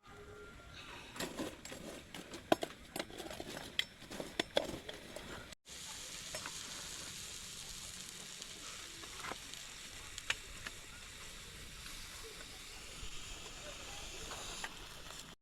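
Food sizzling in a cooking pot while a spoon stirs, clicking and scraping against the pot. After a cut about halfway through, a steady sizzle.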